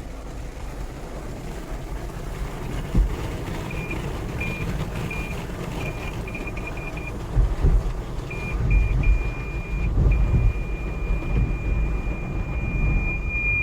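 Car parking-sensor beeps over the low rumble of the vehicle. Short high beeps come faster and faster as the car closes on an obstacle, then merge into one unbroken tone for the last few seconds, the signal that the car is very close.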